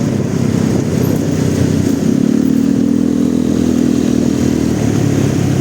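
Motorcycle engine running at a steady pitch while riding, with a short break in the note about two seconds in before it settles again.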